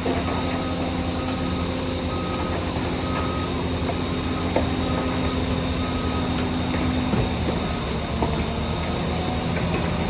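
Heavy earthmoving machinery's diesel engine running steadily, with a reversing alarm beeping about twice a second through the first half.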